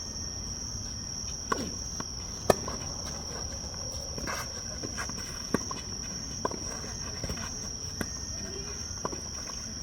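Tennis balls being struck and bouncing: a series of sharp knocks, several about a second apart, the loudest about two and a half seconds in. Insects keep up a steady high-pitched drone throughout.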